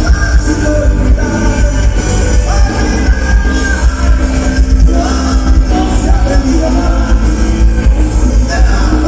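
Live rock band playing loudly, with a singer holding long notes over heavy bass.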